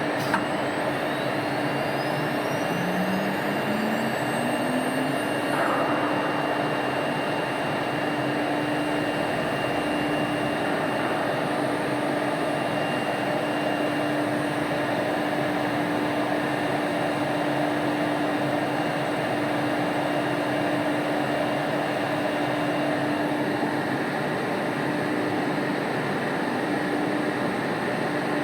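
CNC router spindle spinning up: a whine rising in pitch over the first few seconds, then running at a steady speed with a constant hum, over a steady rush of machine noise.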